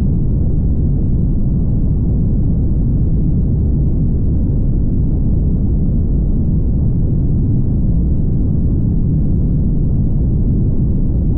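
Steady, low rumble of a car driving along: road and engine noise with no distinct events.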